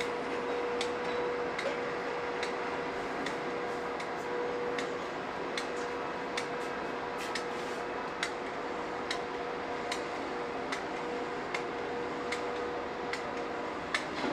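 Heavy road-construction machinery running steadily, with a constant hum and a sharp tick about once a second.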